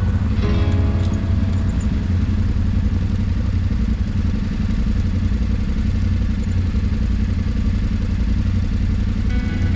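Motorcycle on the move, recorded from an on-bike camera: a steady, loud engine and wind rumble with no change in pace.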